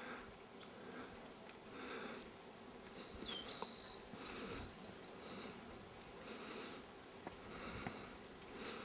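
Faint outdoor ambience with insects buzzing. A short run of high chirps comes in near the middle.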